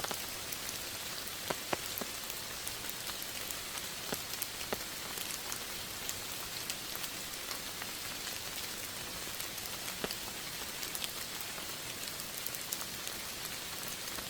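Steady rain falling, a continuous hiss with many individual drops landing as sharp ticks.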